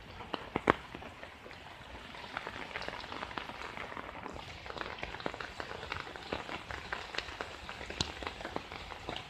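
Rain falling on shallow floodwater and wet grass: a steady hiss of rain with many separate drop hits, a few louder single drips standing out, the loudest under a second in.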